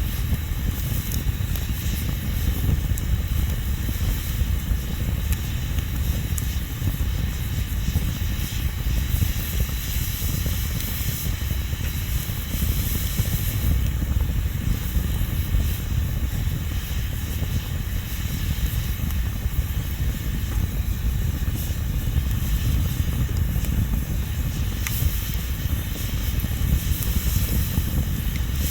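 Wood bonfire burning: a steady low rumble of flames under an even hiss, with a few faint crackles.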